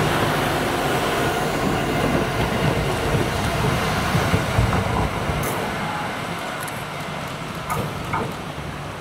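A train passing close by: the engine hums and the wheels run on the rails, loud at first, then fading away from about five seconds in.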